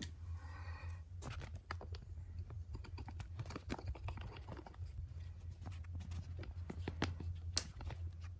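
Irregular light clicks and taps of small parts being handled on an RC nitro car, with one sharper click near the end, over a steady low hum.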